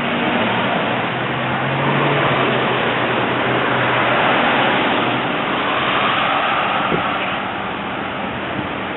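Road traffic: a car driving past, its tyre noise and engine hum building toward the middle and then fading.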